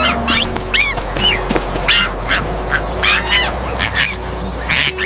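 Duck quacking excitedly in a rapid run of about ten short calls.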